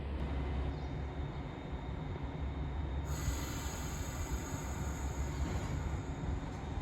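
Train running on rails with a steady low rumble; about three seconds in, a high-pitched squeal joins it and holds.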